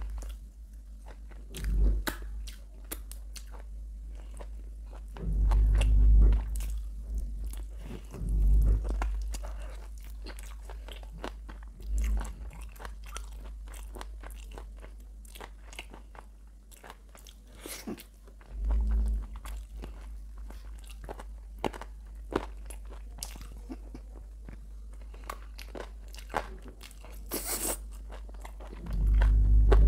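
Close-miked chewing and biting of fried chicken: crunching of the coating with many sharp, wet mouth clicks. Several dull low thumps come at intervals, the loudest about 6 and 8.5 seconds in.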